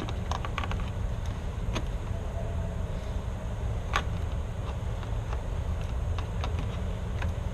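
A steady low rumble with a few scattered light clicks and taps; a sharper tap comes about four seconds in.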